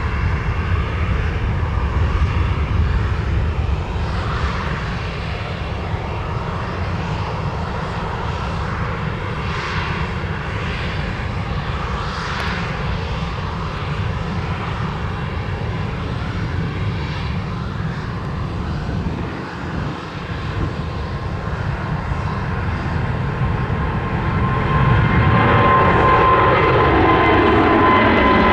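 Boeing 777-200ER's GE90 jet engines during a takeoff: a steady low rumble that grows louder about 25 seconds in, where a high engine whine comes in with falling tones.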